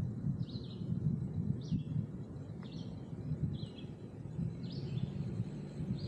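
A bird repeating a short high chirp about six times, a bit under a second apart, over a steady low rumble.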